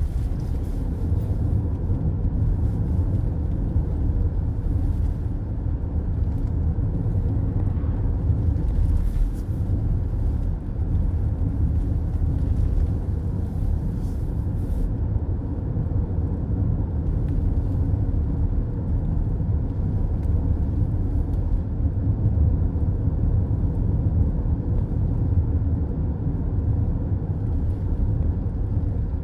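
Steady road noise of a car cruising on a highway, heard from inside the cabin: an even low rumble of tyres and engine.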